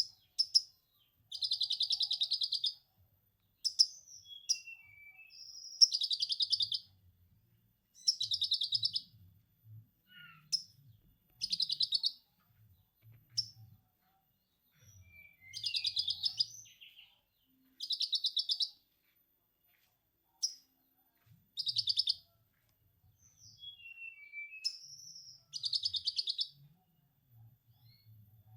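Konin songbird singing lovebird-style 'ngekek' material: repeated bursts of rapid chattering about a second long, with short whistled glides between the bursts.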